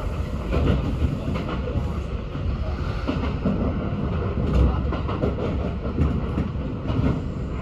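Kintetsu express train running along the track, heard from inside the front car: a steady rumble of wheels on rails with irregular clicks.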